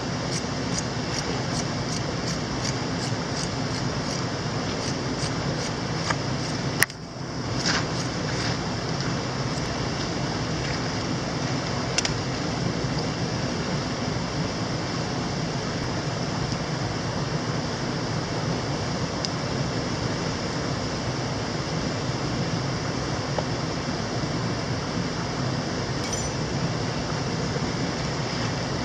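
Mountain stream water rushing steadily, with a brief drop and a sharp click about seven seconds in.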